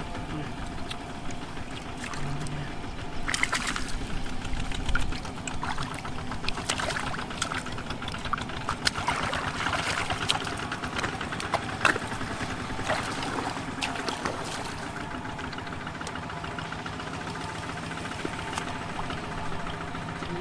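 A small engine running steadily throughout, with water splashing and sloshing over it in irregular bursts.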